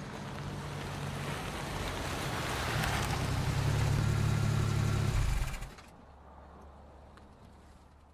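A car engine driving past, growing louder over the first five seconds and then dropping off suddenly, followed by a quieter steady engine hum.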